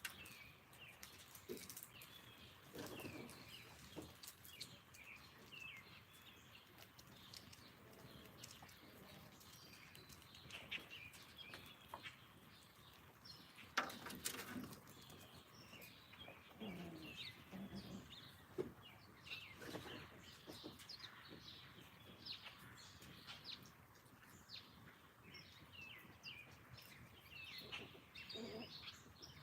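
Small songbirds chirping and twittering, many short calls throughout, with scattered soft rustles and knocks and one sharp click about 14 seconds in.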